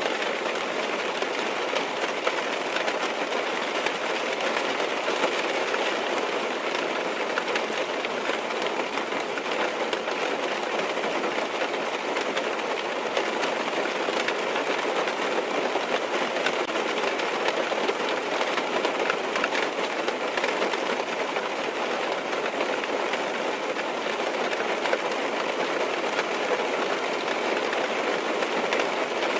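Steady rain pattering on a car's roof and windows, heard from inside the car: a dense, even patter of many small drops.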